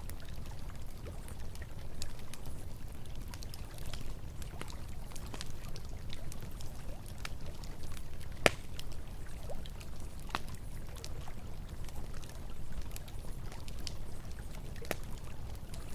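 Campfire crackling, with scattered sharp pops and one louder snap about halfway through, over the steady rush of running river water.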